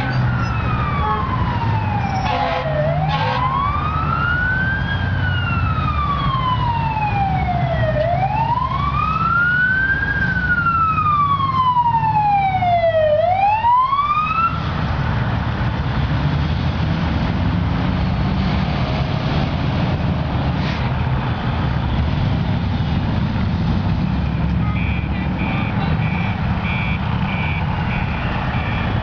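Fire truck siren on a slow wail, rising and falling about every five seconds over the steady rumble of the truck's engine. The siren stops about halfway through and the engine keeps running; near the end there is a quick run of short high beeps.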